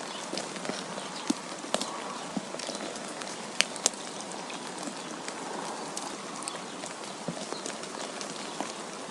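Wind and falling snow: a steady, even hiss with scattered sharp ticks and taps, the two loudest close together a little past three and a half seconds in.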